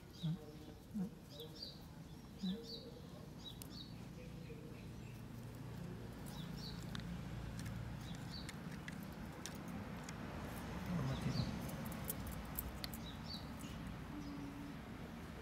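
A small bird chirping repeatedly in short high chirps, about one or two a second, with scattered faint clicks and a few brief low sounds, the loudest about two-thirds of the way in.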